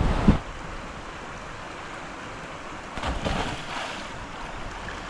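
Mountain stream running, a steady rush of water, with wind on the microphone. A sharp knock comes just after the start, and a brief swell of noise around three seconds in.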